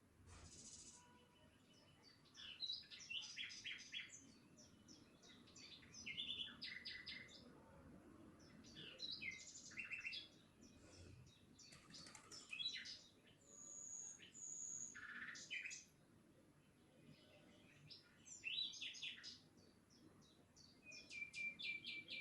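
Faint birdsong: birds chirping in quick runs of short high notes, phrase after phrase with short pauses between, and a rapid trill near the end.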